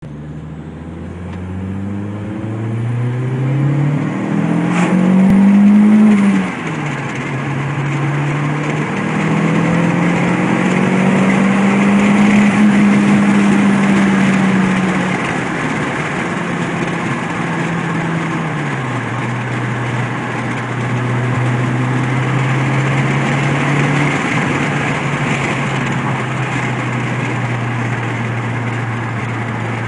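Skoda Octavia 1.8 Turbo's turbocharged four-cylinder engine heard from inside the cabin under hard acceleration. The engine note rises steeply, drops suddenly at a gear change about six seconds in, and climbs again. It then eases down to a lower, steady drone at speed.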